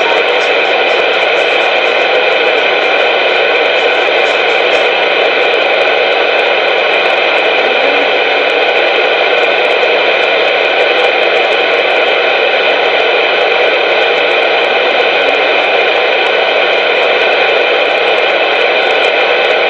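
CB radio channel carrying a loud, steady hiss of static with several steady tones in it, unbroken and unchanging.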